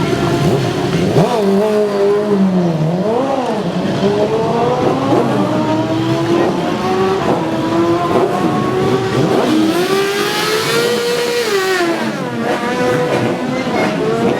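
Superbike racing motorcycle engines revving hard and accelerating, the pitch repeatedly climbing and dropping, with more than one engine heard at once.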